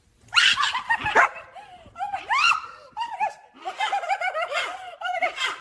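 A dog barking in quick bursts, mixed with high-pitched laughter.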